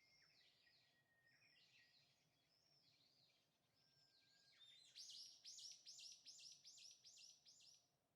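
A small bird's call: repeated arched chirps, about two a second at first, then a faster, louder run of about four a second from about five seconds in that stops shortly before the end.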